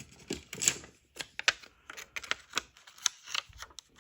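Small plastic parts of a radio control head being handled and fitted together on a bench: a quick, irregular run of clicks and light rustles.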